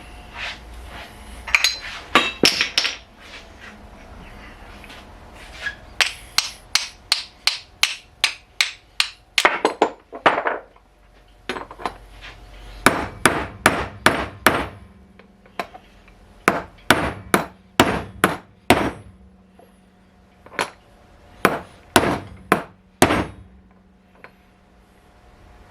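Hammer blows, struck in several quick runs of a few blows a second with short pauses between them.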